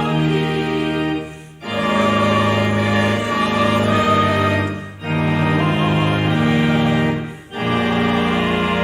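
Church organ playing music in long held chords, with a brief break between phrases roughly every three seconds.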